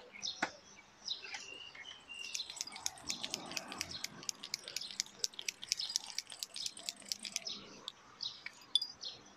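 Small birds chirping, with a fast run of sharp chirps, several a second, through the middle.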